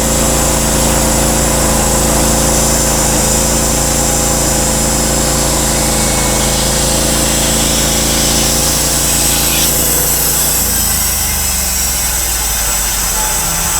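Portable bandsaw sawmill's gas engine running steadily. About ten seconds in, its low tone shifts.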